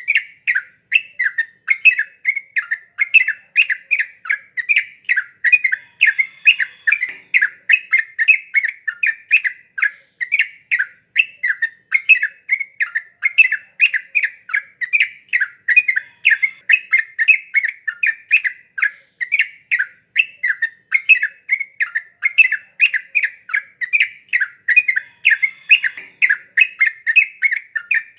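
Yellow-vented bulbul (cucak trucuk) calling steadily in a gacor, continuous bout: short, loud, chattering notes repeated about two or three a second without a break.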